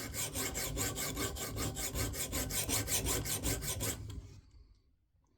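Sharpening stone on a KME guided sharpener rubbed in quick back-and-forth strokes, about five a second, along a fillet knife's edge, then stopping about four seconds in. These are test strokes at a newly raised angle, to see where the stone removes Sharpie marker from the bevel.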